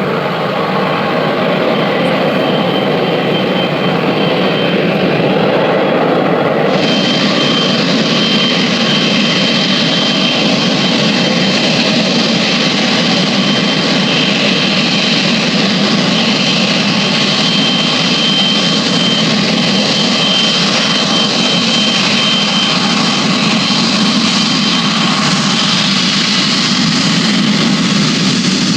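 Jet airliner engines running with a steady noise; about seven seconds in the sound shifts suddenly and a thin high whine holds steady over it.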